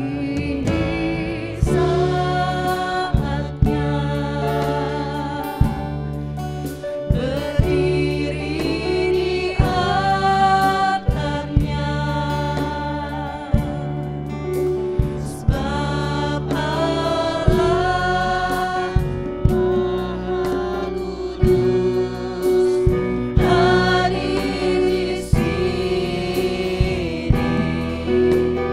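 Gospel worship song with several voices singing together over a band with keyboard, bass and drums keeping a steady beat.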